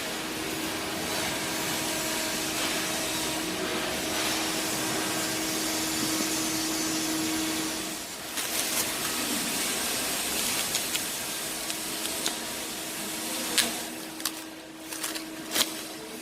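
Steady hissing noise with a humming tone for about eight seconds, then the hiss goes on with scattered sharp clicks and knocks.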